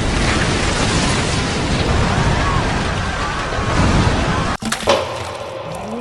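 Water in a glass-tank tsunami model surging and splashing as the simulated wave is sent through, a loud, steady rushing noise that cuts off abruptly about four and a half seconds in.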